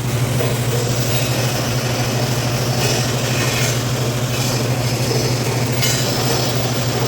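TIG welding arc buzzing steadily for about seven seconds, with a hiss over it, cutting off near the end.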